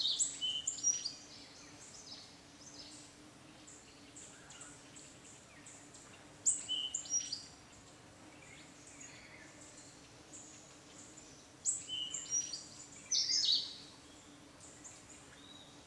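Birds chirping, with short high calls coming in groups at the start, around six seconds in, and again around twelve seconds in, over a faint steady low hum.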